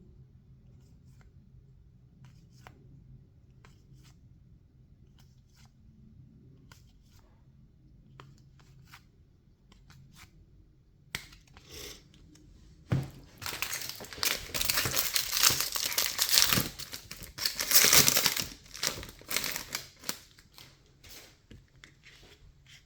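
Foil wrapper of a 2024 Topps Series 2 baseball card pack being torn open and crinkled, loud and crackling for several seconds from about eleven seconds in. Before that, faint scattered clicks of cards being handled.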